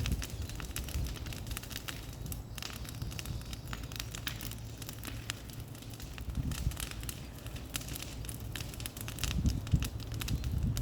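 Bonfire of cleared brush crackling, with dense irregular pops and snaps over a low rumble that grows stronger near the end.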